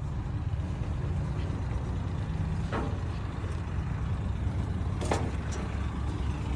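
A large vehicle engine idling steadily, heard as a constant low rumble, with a couple of faint clicks about three and five seconds in.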